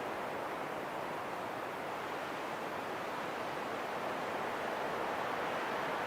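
Steady rushing wind, an even hiss with no gusts or breaks, growing slightly louder near the end.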